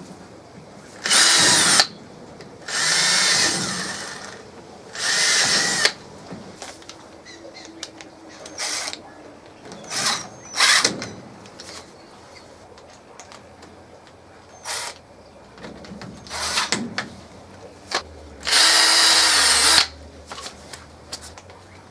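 Power drill running in short bursts, about four longer runs of a second or so with several brief blips between them, driving screws that fasten scrap plywood steps onto PVC pipe.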